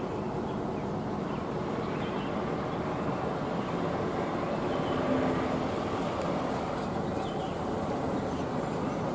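Hino AK bus under way, its steady engine and road noise heard from inside the passenger cabin.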